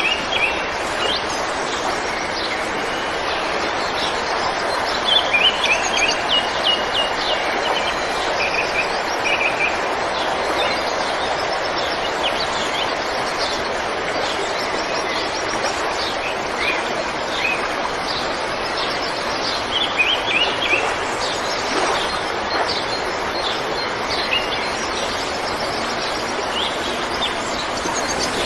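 River water flowing steadily, with small birds chirping over it in quick runs of short notes, clearest about five seconds in and again around twenty seconds in.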